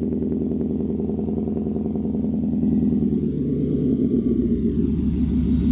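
Ford F-150's supercharged 5.0 Coyote V8 idling just after a warm start, heard right at the tailpipe through a cat-delete Y-pipe and a Magnaflow straight-through muffler. It is a steady, deep exhaust rumble whose note shifts about three seconds in as the idle begins to settle.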